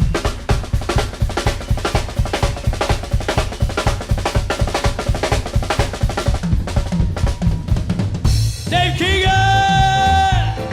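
Drum kit solo on a live swing gig: rapid snare, bass drum and rimshot strokes with rolls. About eight and a half seconds in, a long held pitched note comes in over the drums.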